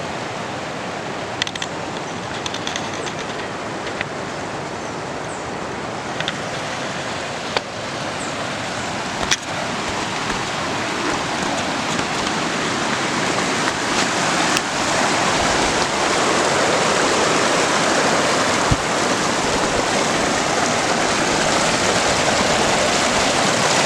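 Waterfall rushing: a steady roar of falling water that grows gradually louder, with a few faint clicks.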